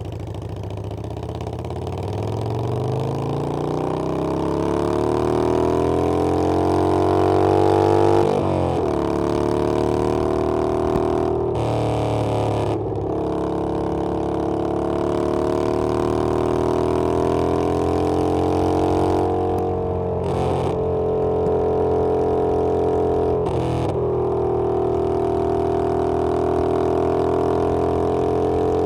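Harley-Davidson Iron 883's air-cooled V-twin engine under way, pulling up from low revs with a rising pitch. The pitch drops suddenly at a gear change about eight seconds in, and several more times later, climbing again after each.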